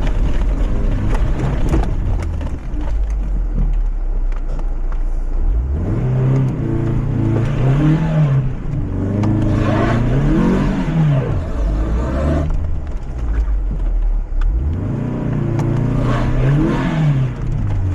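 Lifted Mazda MX-5's four-cylinder engine running under load. Its revs climb for a second or two and drop back three times, about six, nine and fifteen seconds in.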